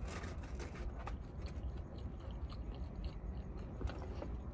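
Close-up chewing of a mouthful of chicken sandwich with soft bread and mozzarella: small wet mouth clicks and smacks, over a low steady hum.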